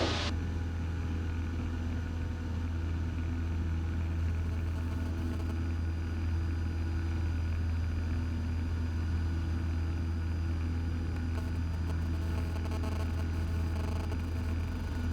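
Cessna 172's piston engine and propeller heard as a steady low drone inside the cabin, at power for the climb out of a missed approach.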